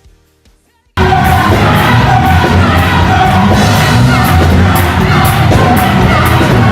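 Live gospel choir singing over a band, with shouts and whoops from the crowd in a large hall. It cuts in suddenly about a second in, after near quiet.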